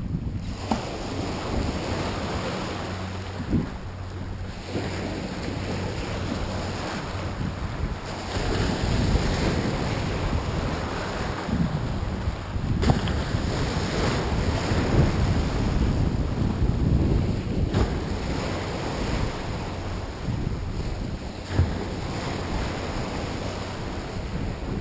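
Wind buffeting the microphone over the wash of waves in gusts, with a few sharp knocks.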